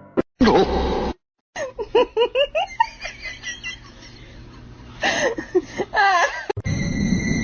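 Someone laughing in quick, pitched bursts, about five a second at first and trailing off, then laughing again shortly before the end.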